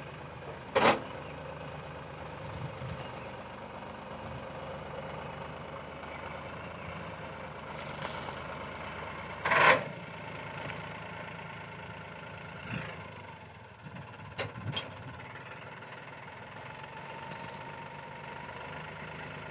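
Diesel engine idling steadily. Two short, loud sudden sounds break through, one about a second in and one about ten seconds in.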